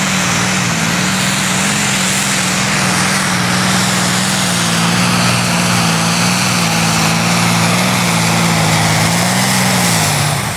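Quadcopter's electric motors and propellers humming steadily, the pitch wavering slightly with small throttle changes, then dropping and stopping just before the end.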